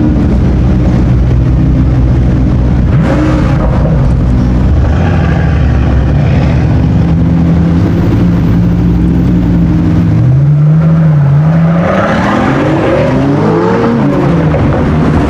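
A sports car's engine running loud and close. Its pitch falls at first and holds fairly steady, then revs up and down several times near the end.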